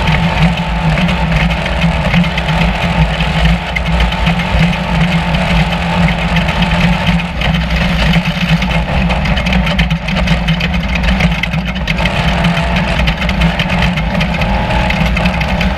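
Spec Trophy Truck's V8 engine running loud and steady as the truck drives, over a dense steady noise.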